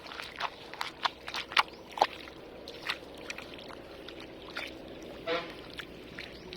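Water and mud sloshing and splashing in a flooded rice paddy as weeds are pulled by hand and pressed into the mud: a quick, irregular run of short splashes, thickest in the first three seconds and fewer after.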